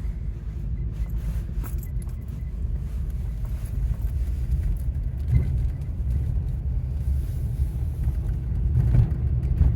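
Steady low rumble of a car being driven, heard from inside the cabin: engine and road noise, with a few light rattles.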